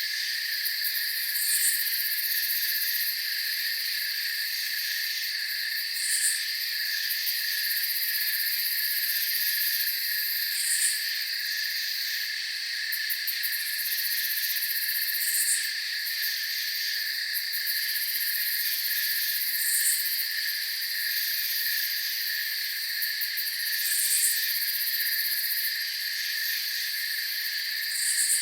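Steady chorus of crickets and other night insects, a continuous high trill, with a short high call repeating about every four and a half seconds.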